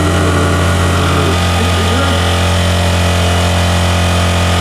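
Car engine held at constant high revs during a burnout, with the steady sound of spinning tyres.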